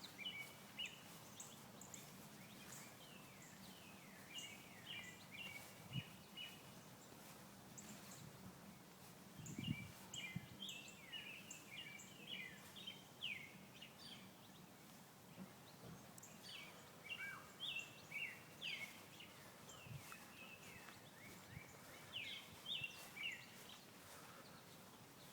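Small songbirds chirping in quick runs of short, downward-sweeping notes, in three bouts with pauses between, faint over quiet outdoor background. A single soft low thump about ten seconds in.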